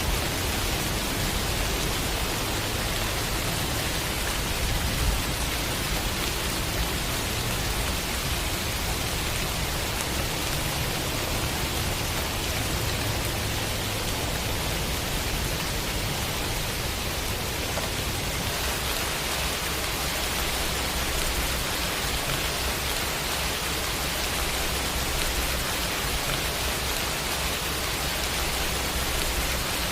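Steady rain, a dense even hiss with no separate drops standing out. Its low rumble shifts slightly about two-thirds of the way through.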